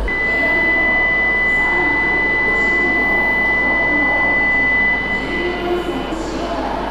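E5 series Shinkansen train starting to pull out of the platform, a steady rumble of train and station noise. A single steady high tone sounds over it and stops after about five and a half seconds.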